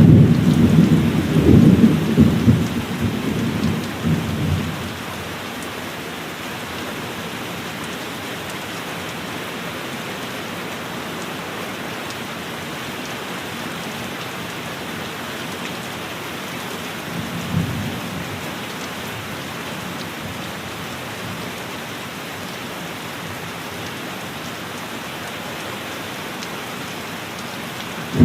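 Steady heavy rain, with a loud low rumble of thunder in the first few seconds that fades out, and a brief, fainter rumble of thunder about two-thirds of the way through.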